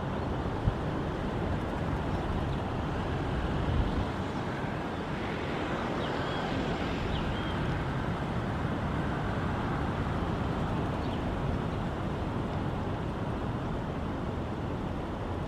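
Steady outdoor road-traffic noise, an even rumble and hiss, with one brief sharp knock about a second in. A few faint high chirps are heard near the middle.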